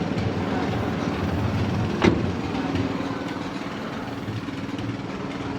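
Nissan Frontier pickup's engine idling steadily, with a single sharp knock about two seconds in.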